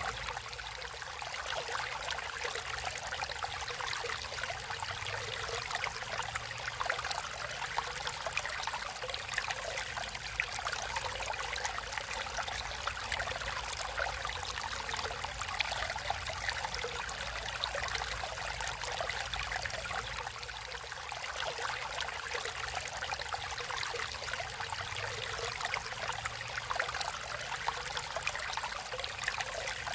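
Water flowing naturally in a stream, a steady, even rushing with no pauses or changes.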